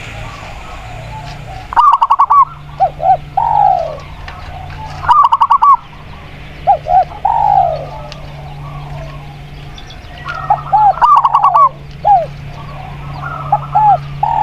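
Spotted dove (tekukur) and zebra dove (perkutut) cooing in turn. Quick runs of about five short coos alternate with pairs of short coos that end in a longer, falling coo, several times over. A steady low hum runs underneath.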